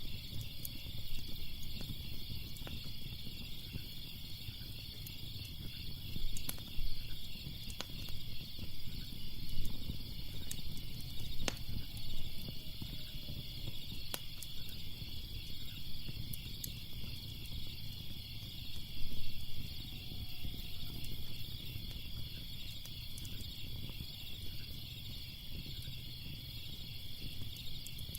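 Crickets chirping in a steady, pulsing chorus over the low noise of a wood fire, with scattered sharp crackles and pops.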